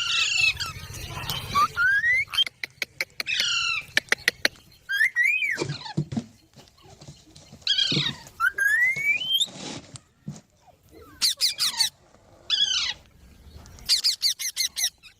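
Green parrots calling in a string of separate calls: rising whistled notes, harsh squawks and runs of quick clicks.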